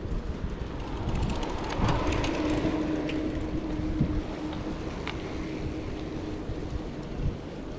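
Wind rumbling on the microphone of a moving bicycle ride, with a few light clicks about two seconds in and a faint steady hum through the middle.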